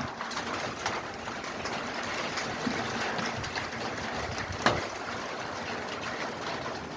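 Hail and rain pelting a roof: a steady hiss with scattered sharp knocks of individual hailstones, the loudest about two-thirds of the way in.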